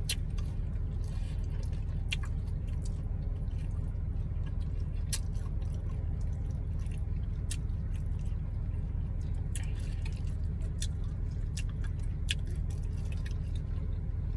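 Close-up mouth sounds of someone eating: wet squishes and small clicks scattered through, over a steady low hum inside a car's cabin.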